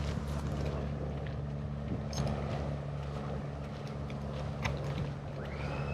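A steady low engine hum with a few faint ticks, and a short high tone that rises, holds and falls near the end.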